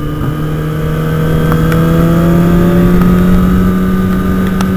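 Kawasaki ZX-6R's inline-four engine pulling steadily under way, its pitch rising slowly as the bike gains speed, with wind rumble on the helmet camera. A few light clicks, the unbuckled helmet strap clattering.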